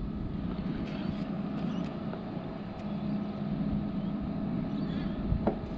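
Kings 75 L 12 V portable fridge's compressor and cooling fan running steadily, working hard on the max setting and drawing about 5.4 amps. A short click comes near the end.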